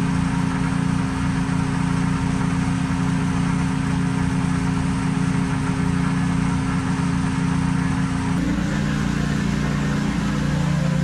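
An engine running steadily at a constant speed; its pitch shifts slightly about eight seconds in.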